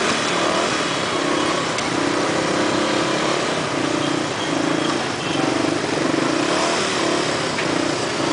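Motorcycle engine running and revving up and down in city traffic, its note rising and easing off every second or so under a steady rush of wind and road noise.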